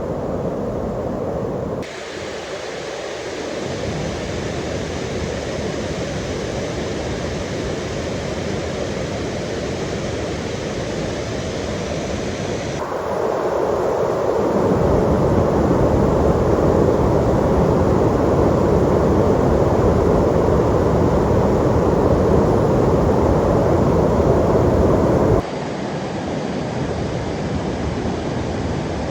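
Steady rush of flowing mountain water. The sound changes suddenly three times: thinner about two seconds in, then louder and fuller about thirteen seconds in, then thinner again near the end.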